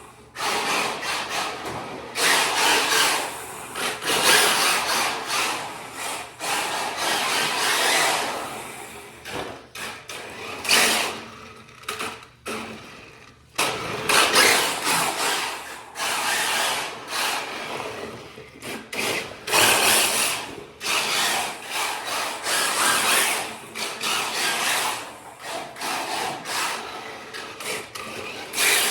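Kyosho Fazer MK2 RC drift car with a Traxxas brushless electric motor being driven, its motor and drivetrain whirring in repeated surges as the throttle is worked on and off, with a brief lull about twelve seconds in.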